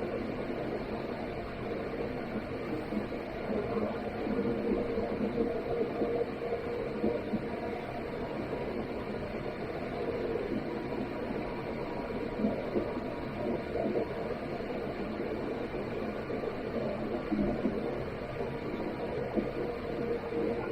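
Steady cabin noise inside an Airbus A330-200: the low rumble of engines and airflow with a faint steady hum, and a few brief louder knocks and rattles.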